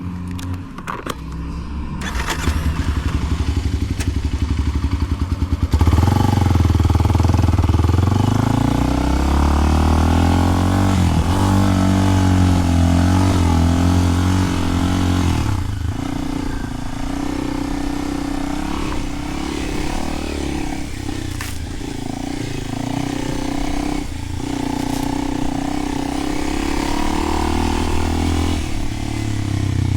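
Kawasaki KLX300 single-cylinder four-stroke engine through a Delkevic slip-on exhaust. It runs at idle with an even beat, then at about six seconds it revs up and keeps running with its pitch rising and falling.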